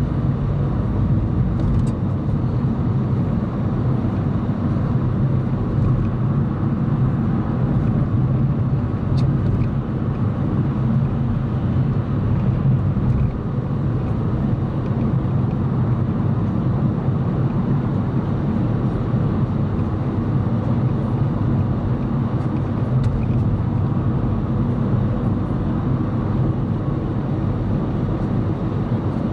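A car driving steadily along the road: a constant low hum of engine and tyre noise.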